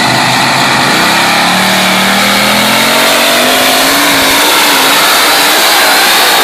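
Very loud engine of a pulling vehicle at full throttle during a tractor pull. Its pitch starts climbing about a second in, then wavers up and down.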